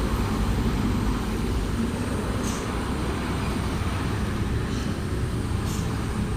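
Heavy truck's diesel engine running steadily at close range, a dense low rumble with no pause.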